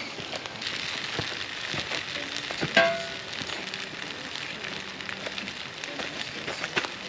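Campfire cooking: food sizzling in a pan over the fire, with the wood crackling and popping. A single sharp clink rings out near the middle.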